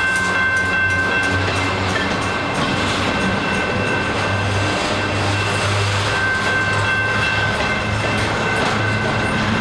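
Canadian Pacific freight cars rolling by slowly, a loud steady rumble with high steady squealing tones from the wheels and running gear, and faint repeated clicks over the rail.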